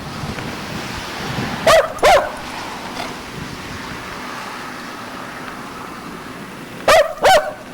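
A pet dog barking: two quick barks about two seconds in, then another pair near the end.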